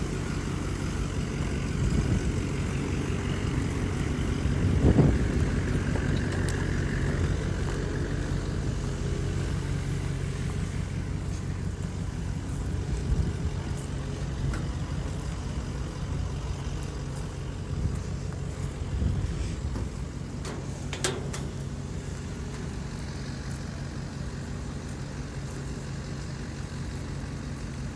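An engine running steadily, with a brief louder swell about five seconds in.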